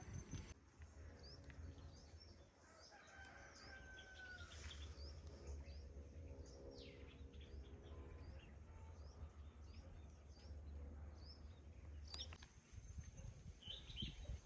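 Faint outdoor birdsong: short high chirps repeated every second or so, with one longer gliding call about four seconds in, over a low steady rumble.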